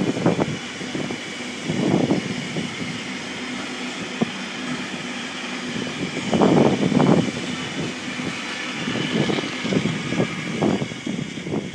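A train passing on the line, its wheels on the rails giving a steady rumble that swells several times at uneven intervals.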